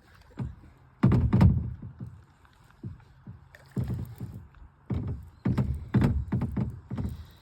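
Kayak being paddled: a series of irregular thumps and splashes from the paddle strokes.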